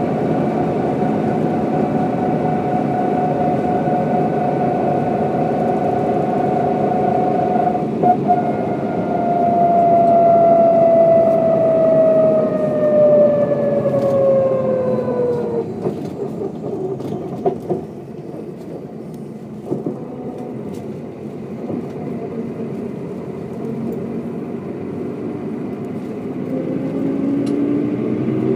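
Mercedes-Benz O407 bus engine running under way, with a whine that falls steadily in pitch for several seconds as the bus slows, the sound dropping off about halfway through. Near the end the engine note rises again as it begins to pull.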